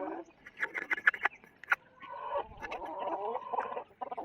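Chickens clucking: a run of short sharp notes in the first half, then a longer wavering call.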